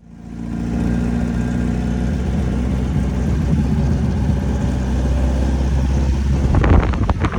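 Car engine idling steadily, fading in from silence; about 6.5 seconds in it turns rougher and noisier.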